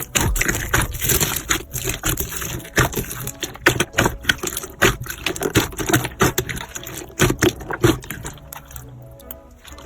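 Slime being squished and worked, with irregular wet clicks and pops, several a second.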